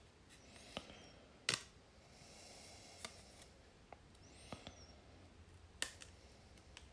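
Scattered light clicks and taps of small hard parts being handled, with one sharper click about one and a half seconds in and soft rustling between them.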